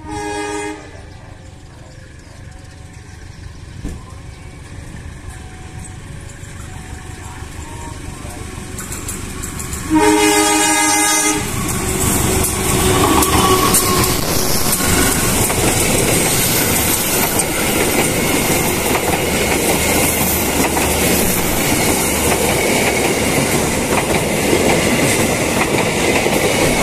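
CC203 diesel-electric locomotive hauling a passenger train. It sounds a short horn blast at the start, and its engine grows louder as it approaches. A second, longer horn blast comes about ten seconds in, then the locomotive and coaches pass close by with steady, loud wheel-on-rail noise.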